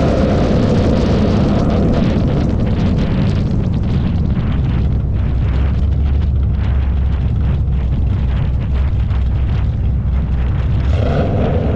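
Drag race car engine at full throttle running down the strip: a loud, steady low rumble with crackling, settling to a lower engine note near the end.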